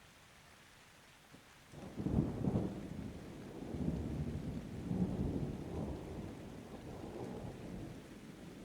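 Thunder rolling over light, steady rain: a sudden low rumble starts just under two seconds in, swells again a couple of times, then slowly dies away.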